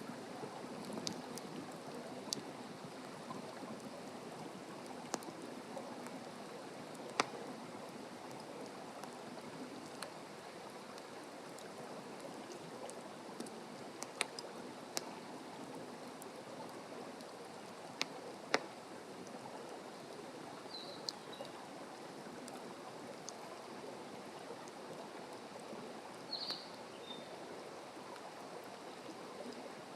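Wood campfire burning with a steady rushing sound and sharp crackles and pops every few seconds. A bird gives two short chirps in the latter part.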